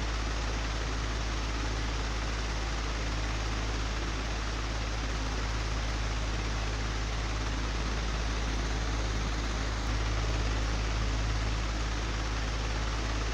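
Old, broken electric fan running steadily: an even rush of air over a deep low hum, which swells slightly about ten seconds in.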